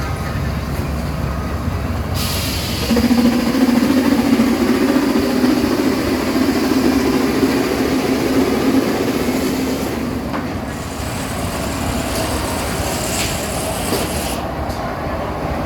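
Sawmill driven by a belt from an Avery tractor, its saw cutting through a log. A loud humming whine comes in about three seconds in and eases off about ten seconds in, leaving the mill and tractor running.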